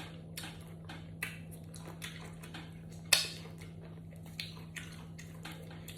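Eating sounds: a run of small clicks and clinks, as of cutlery on a plate, with one sharper click about three seconds in.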